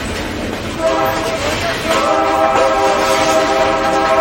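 Diesel locomotive's multi-note air horn: a short blast about a second in, then a long, steady blast from about two seconds in, over the noise of the slow-moving train.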